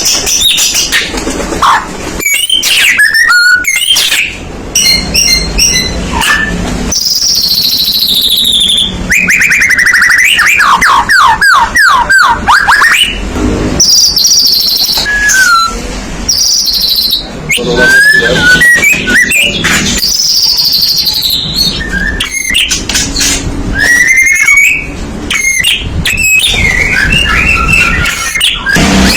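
White-rumped shama (murai batu) singing loudly and continuously: varied whistled phrases, rapid trills and a long falling run of quick notes about ten seconds in.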